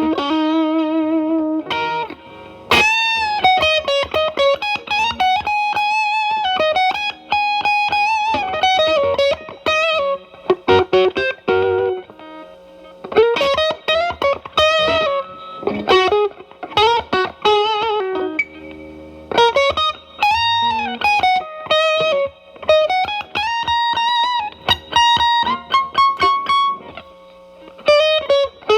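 Telecaster electric guitar through an E.W.S. Brute Drive (BD-1) distortion pedal set to gain 1, into a Marshall Valvestate amp's clean channel, giving a lightly driven tone. Improvised lead phrases of single notes with string bends and vibrato, broken by short pauses and a few chord stabs.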